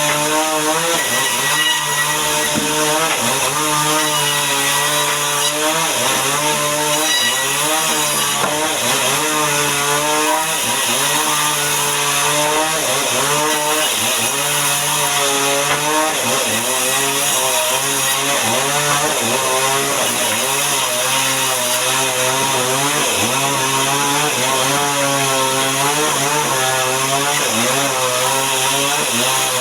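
Two-stroke chainsaw running under load, ripping timber into boards. The engine pitch dips and recovers every second or two as the chain bites into the wood.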